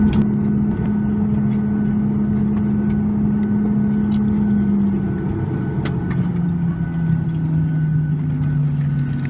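Steady hum of a Boeing 737 MAX 8 cabin around the time of arrival, with a low tone that steps down in pitch about five seconds in, and scattered light clicks.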